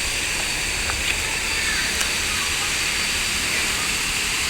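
Waterfall's steady rush of falling water, with a few faint clicks about one and two seconds in.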